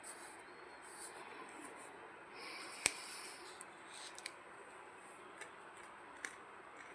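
Pencil on paper: faint scratching strokes. One sharp click comes just under three seconds in, followed by a few lighter ticks.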